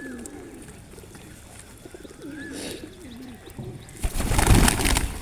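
Pigeons cooing, low wavering calls near the start and again midway. About four seconds in, a loud rustling noise lasting about a second.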